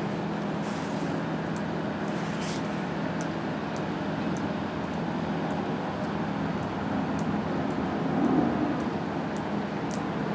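Steady rain with scattered drips ticking close by and a steady low hum, as an approaching train's rumble grows louder about eight seconds in.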